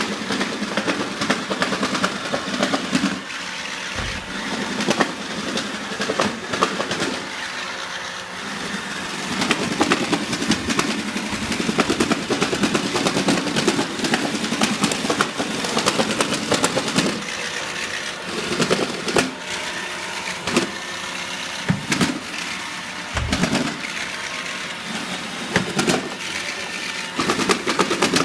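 iRobot Roomba 880 robot vacuum running, its motors and brushes whirring steadily while it clunks again and again at irregular intervals. The clunking is a fault that appeared after about three months of use and that a service centre could not explain.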